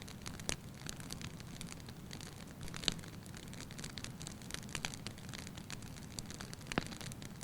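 Firewood burning in a fireplace: a low steady rush of flame under irregular light crackles, with a few sharper pops about half a second in, near the middle and near the end.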